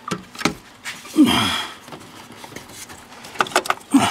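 Light clicks and knocks of hands working at wiring connectors and interior trim in a pickup's cab, with a short sound that falls in pitch about a second in and again near the end.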